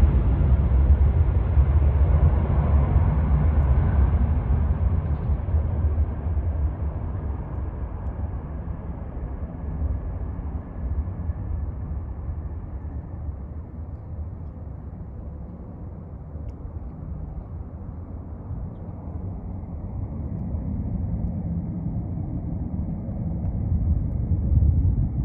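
Airbus A330 airliner's jet engines rumbling and fading over about fifteen seconds as the aircraft draws away, the higher sound dropping out first. A low rumble swells again near the end.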